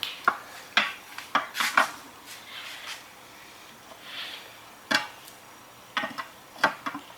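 Metal tools and transmission parts clinking and knocking against each other, a series of sharp clanks, several in quick succession in the first two seconds, with a short scraping hiss about four seconds in.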